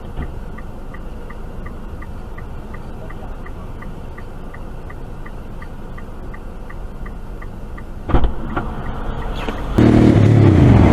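Steady car road noise with a light regular clicking about three times a second. About eight seconds in comes a sudden loud knock, and from about ten seconds on the sound becomes much louder, with a low pitched hum.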